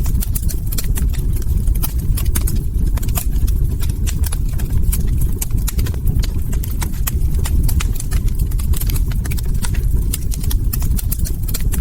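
Log fire crackling, with frequent sharp irregular pops over a steady low rumble of burning.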